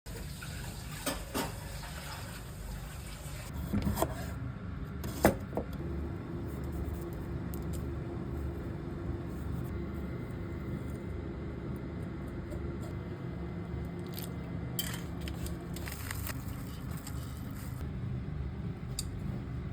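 Microwave oven running with a steady low hum for about ten seconds, started with a sharp click and stopped with clicks near the end, with a few light knocks of dishes before it.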